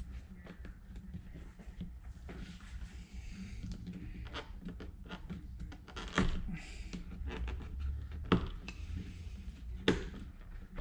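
Small clicks, rustles and knocks of metal parts being handled and fitted by hand, with three sharper knocks about six, eight and ten seconds in, over a low steady hum.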